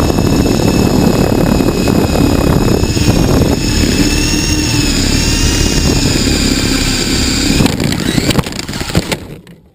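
H853 Hero RC helicopter's electric motor and rotor running with a steady high whine that wavers slightly in pitch, over heavy low rumbling noise. About eight seconds in the sound drops, a few knocks follow, and it dies away just before the end.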